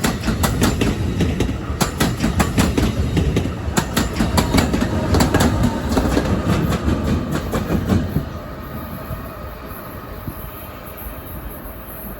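Train passing at speed, its wheels clicking rapidly over the rail joints. About eight seconds in the noise drops off quickly, leaving a quieter steady rumble.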